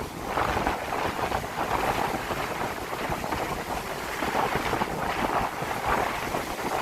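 Strong wind buffeting the microphone over surf on the shore: a constant rushing noise with a heavy low rumble that swells and eases irregularly.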